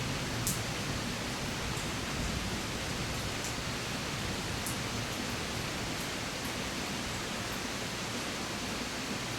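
Steady rain falling, an even hiss with a few scattered sharp drip ticks.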